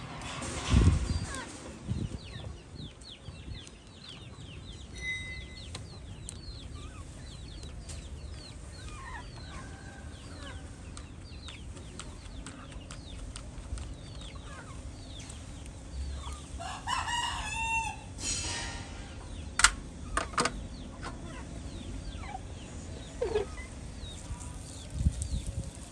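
A rooster crowing once, about two-thirds of the way through, over a background of many short high chirps. A few sharp clicks or knocks follow the crow.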